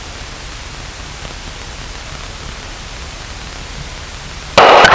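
Steady hiss on the cockpit radio and intercom audio between radio calls. Near the end, a sudden loud burst of static as the next transmission opens.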